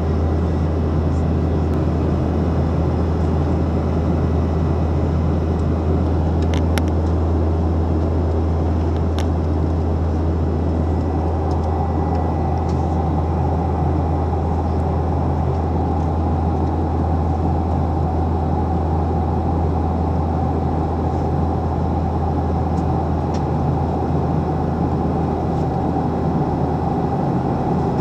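Steady cabin noise inside a Boeing 737 airliner: a constant low rumble from the jet engines and the airflow. A steady higher tone joins it about ten seconds in.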